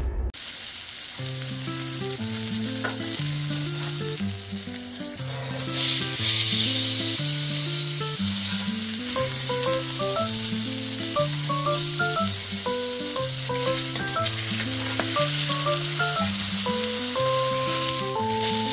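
Salmon fillet sizzling as it sears in butter in a hot pan, the hiss briefly louder about six seconds in. Light background music with a stepping bass line and melody plays underneath.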